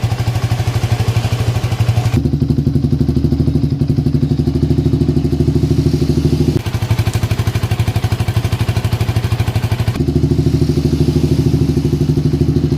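Yamaha Vixion's single-cylinder four-stroke engine running steadily through an R9 Alpha aftermarket exhaust, a fast even throb. Its tone changes abruptly three times, about two seconds in, midway, and near the end.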